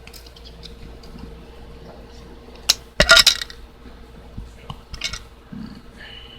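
Small metal tools and coil-head parts being handled on a hard surface: light clicks, one sharp click about two and a half seconds in, then a brief metallic clatter, the loudest sound, and a few more light clicks near the end.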